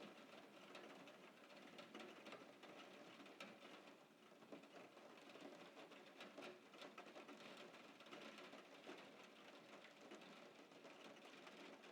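Faint steady rain patter: a soft hiss scattered with many fine drop ticks.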